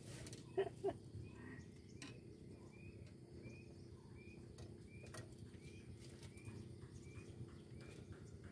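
A small bird repeating a short chirp that rises and falls, about two a second, faint over a steady low background noise.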